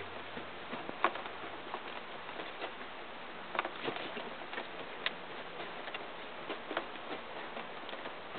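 Irregular light clicks and taps over a steady hiss, the sharpest about a second in.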